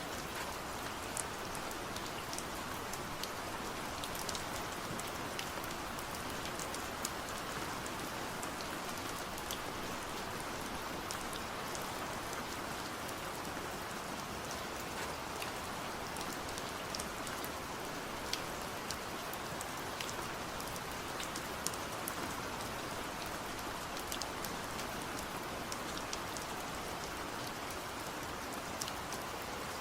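Steady rain falling, a dense even hiss with many sharp individual drop ticks scattered through it.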